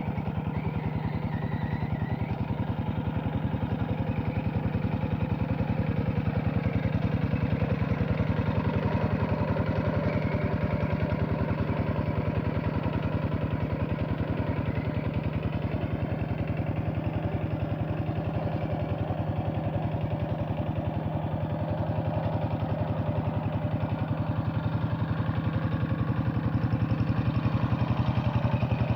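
Two-wheel hand tractor's single-cylinder diesel engine running steadily with an even, rapid firing beat while working a wet paddy field.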